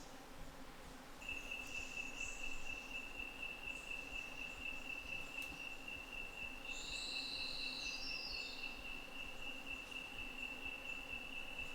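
An insect calling with one steady, unbroken high-pitched trill that starts about a second in. Around the middle a short run of higher chirps from another calling animal joins it.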